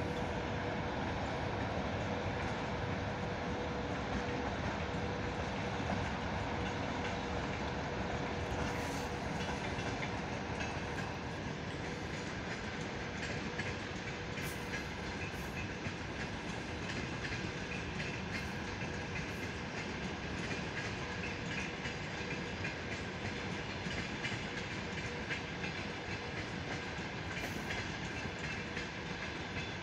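Passenger train passing, the steady noise of its wheels on the rails with some clickety-clack. A thin steady whine fades out about ten seconds in.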